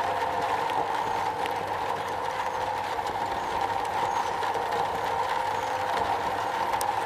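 Steady rain falling on a metal roof: an even, unbroken hiss with a stronger band in the middle, and scattered faint ticks of single drops.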